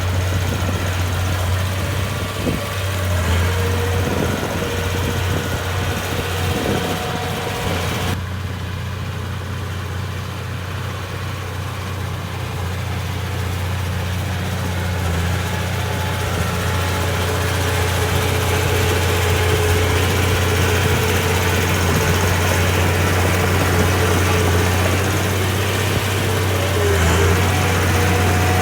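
Bulldozer's diesel engine running steadily at low speed with a deep, even drone. The higher clatter drops away abruptly about eight seconds in, and the engine grows gradually louder over the following seconds.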